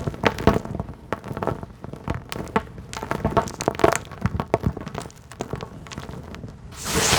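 Chunks of hard, dry dirt crumbling and breaking apart, a run of irregular crisp snaps and crackles. Near the end a short rush of falling grit and crumbs.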